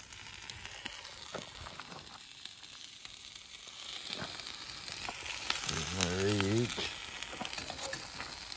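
A grilled cheese sandwich and ham frying in a pan on a camp stove: a steady sizzle that grows louder about four seconds in, with a few light clicks. About six seconds in, a low voice makes a brief wavering hum.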